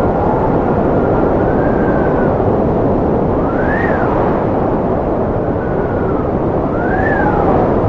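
Strong wind blowing steadily with a deep rushing noise, and high whistling tones that rise and fall several times.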